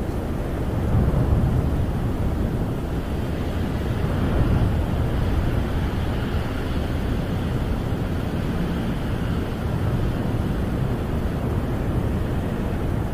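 Snowstorm wind buffeting a camper, heard from inside: a steady low rush that swells in gusts about a second in and again around four seconds in.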